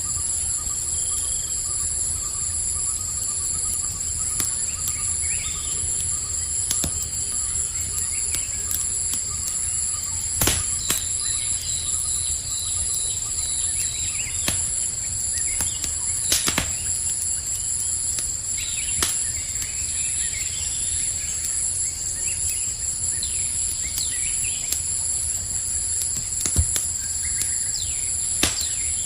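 Campfire crackling, with sharp pops every few seconds and a low steady rumble, under a continuous high trill of crickets and scattered short bird chirps.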